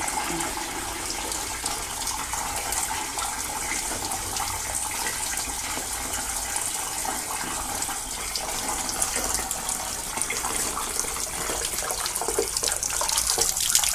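Water from a hose wash-out wand spraying and rushing steadily inside a sectional steam boiler, flushing out sludge and oil.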